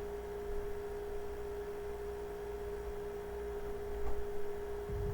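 A steady, unchanging electronic tone at one mid-low pitch, like a whine or hum on the recording, with a faint low rumble coming in near the end.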